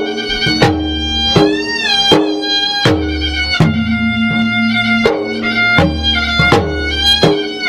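Traditional Maros gendang adat music: drums struck in a steady pattern about every 0.7 s, under a held melody line that bends in pitch about two seconds in.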